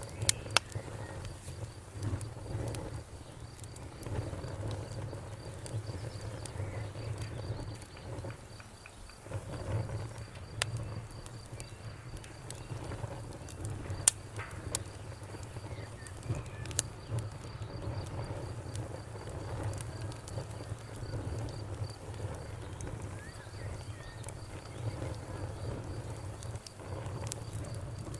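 Wood fire crackling, with a few sharp pops standing out over a low steady rumble, while crickets chirp steadily in the background.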